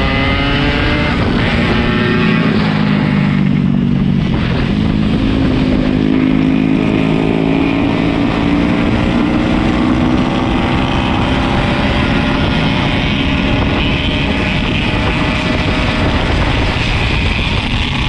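Yamaha RX-King 135 cc single-cylinder two-stroke motorcycle engine running under way. Its pitch drops about four seconds in, then climbs again and holds as the bike pulls.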